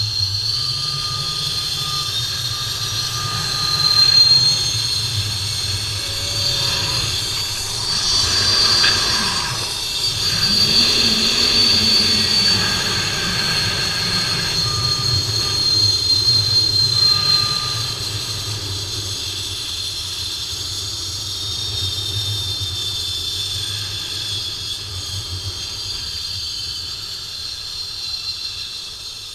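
Zipline trolley pulley running along a steel cable: a long, steady high whine over a low rumble, louder through the middle stretch.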